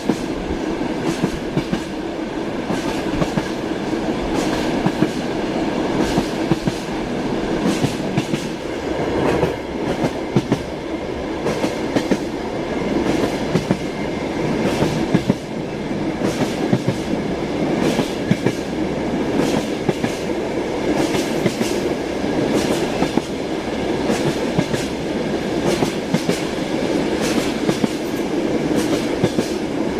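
Train wheels clattering over rail joints: a steady rolling rumble broken by frequent sharp clicks, often in quick pairs.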